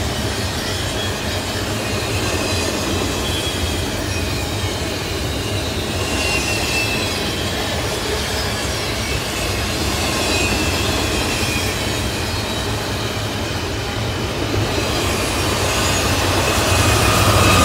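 CSX double-stack intermodal freight cars rolling past, a steady rumble of wheels on rail with faint high wheel squeals coming and going. It grows louder near the end.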